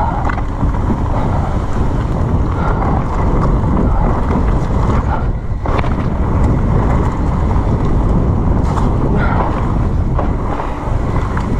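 Wind buffeting the camera's microphone during a fast mountain-bike descent, mixed with a steady rush of tyre and trail noise.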